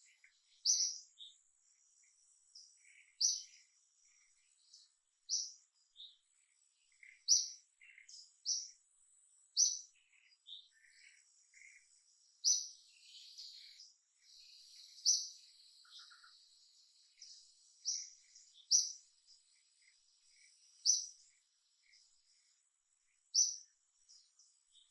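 A small bird chirping: short, sharp, high chirps repeated every one to two seconds, over a faint steady high insect whine.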